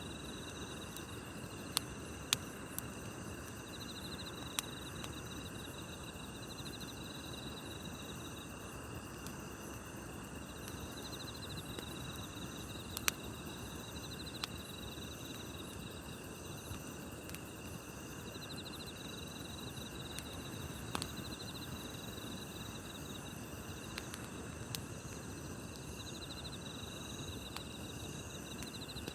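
Wood campfire crackling, with a few sharp pops standing out, over a steady chorus of crickets and other night insects trilling, one of them in pulsing bursts every few seconds.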